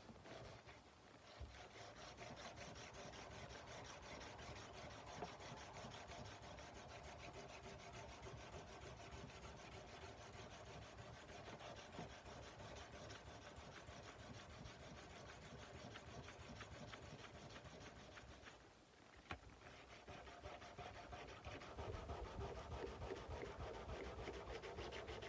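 Sandpaper rubbed by hand along a steel kukri blade in quick, steady back-and-forth strokes. It breaks off briefly about three quarters of the way in, then resumes a little louder.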